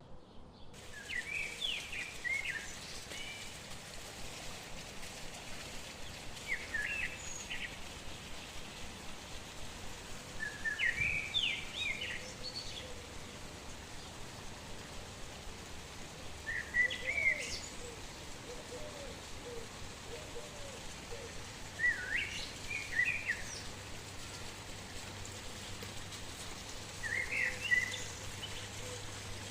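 A songbird singing the same short phrase of quick rising and falling notes about every five seconds, over a steady outdoor background hiss.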